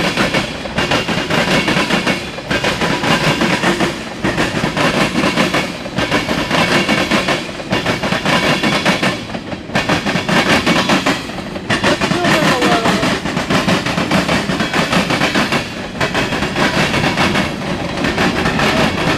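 Norfolk Southern freight train cars rolling past close by, a steady rumble of steel wheels on rail with clicking over the rail joints, the loudness dipping briefly about every two seconds as car after car goes by.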